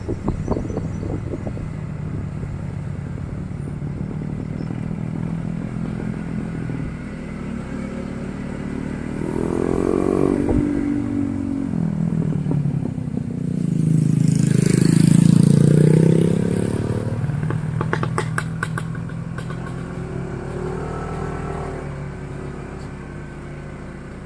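Motorcycle engine running under way, the revs climbing about ten seconds in and the engine at its loudest a few seconds later, with a quick run of rattling clicks after that.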